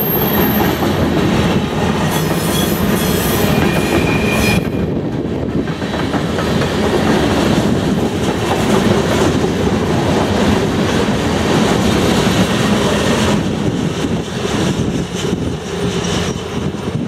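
Freight cars of a Canadian National mixed freight rolling past close by, their steel wheels clattering steadily over the rail joints. The covered hoppers, tank cars and a loaded lumber car make a continuous loud rumble.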